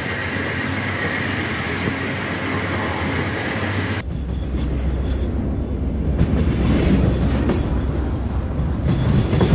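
Car-carrying shuttle train running on the rails: a steady rumble of the wagons with a faint steady high tone. About four seconds in, the sound cuts abruptly to a heavier, lower rumble.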